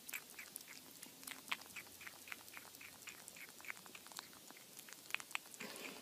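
Kitten gnawing on the rim of a plastic container: faint, irregular small clicks of teeth on plastic, a few a second.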